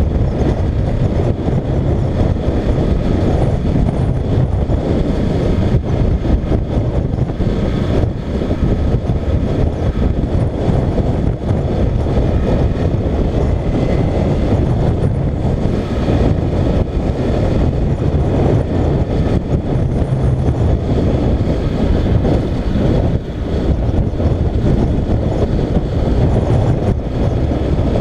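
Motorcycle on the move, its engine running steadily beneath a loud, constant rush of wind on the microphone.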